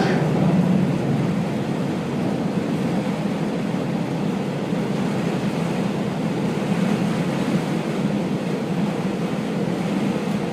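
Steady running noise of a KiHa 48 diesel railcar heard from inside the cabin: an even low engine drone under the rush of wheels on the rails.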